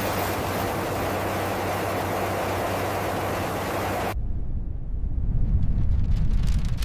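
Jet flyby noise: a steady, loud rushing roar that cuts off abruptly about four seconds in, replaced by a louder deep rumble with crackle toward the end.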